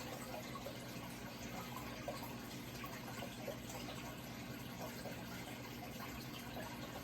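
Running water trickling and bubbling steadily, with small scattered bubbling blips over a steady low hum.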